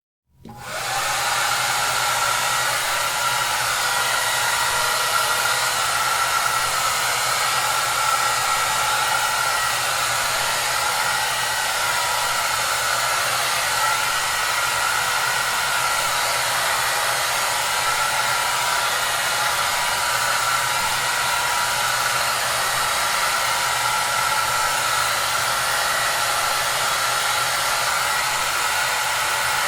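Hair dryer running steadily, a constant blowing hiss with a faint motor whine and low hum. It comes in just after a brief gap at the start and swells to full level within about a second.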